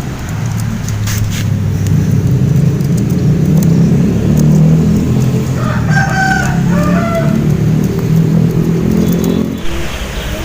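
A rooster crowing about six seconds in, over a loud, steady low rumble.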